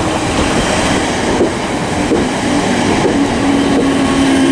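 Class 455 electric multiple-unit train pulling into the platform, a steady rolling rumble with a faint motor whine that falls slowly in pitch as it slows.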